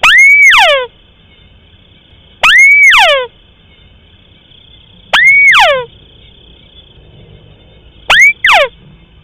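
Recorded lure call of a rice-field crake (burung tikusan sawah): a loud note that swoops up and then slides down, repeated about every two and a half seconds, with two short clipped notes near the end.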